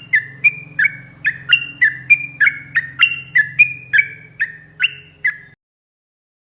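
Yellow-vented bulbul (trucuk) singing a fast run of short, sharp notes, about three a second, each dropping in pitch, with a faint low hum beneath. The song cuts off suddenly near the end.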